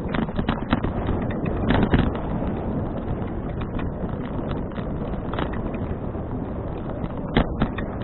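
Wind rushing over an action camera's microphone on a moving bicycle: a steady rush, with scattered clicks and knocks, the loudest about two seconds in and again near the end.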